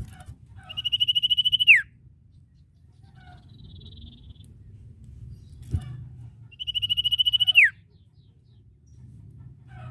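A sirtu (common iora) calling twice: each call is a fast, even trill on one high pitch lasting about a second, ending in a sharp downward slur, the two calls about six seconds apart. A single faint click falls between them.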